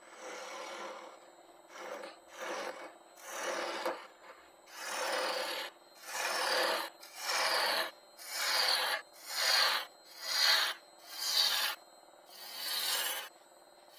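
Woodturning gouge cutting a spinning wooden bowl on a lathe in repeated passes, about one a second, each cut a rasping scrape that falls in pitch as it goes.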